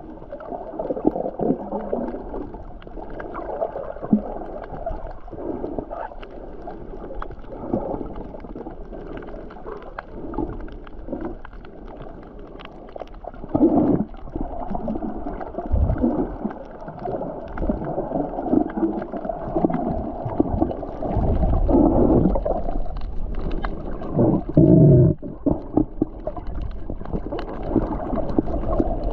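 Muffled, irregular sloshing and gurgling of water, swelling louder several times.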